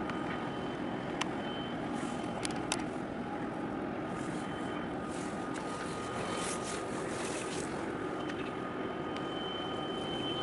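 Steady hum of distant vehicles and machinery, with a faint high whine that comes and goes and a few light clicks.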